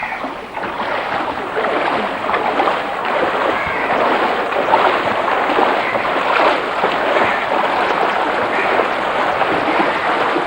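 Loud, steady rushing and splashing of water, a dense crackling noise with no engine tone in it.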